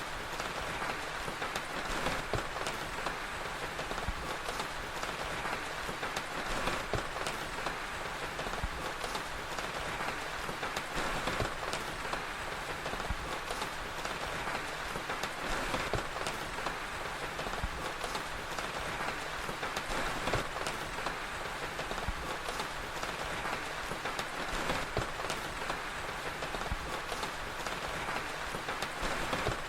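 Steady rain with scattered sharp crackles of a wood fire.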